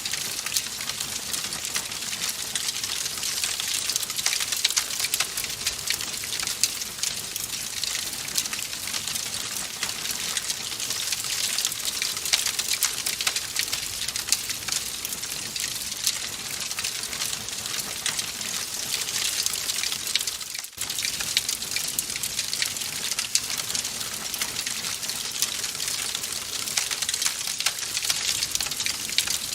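Wood fire crackling in a fireplace: a steady hiss thick with small pops and snaps, with a brief drop-out about two-thirds of the way in.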